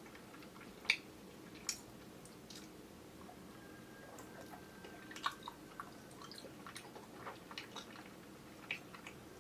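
Mouth chewing soft, chewy kyoho grape jelly: scattered wet, sticky smacks and clicks, the sharpest about a second in and near the end, over a steady low hum from a camera's built-in microphone.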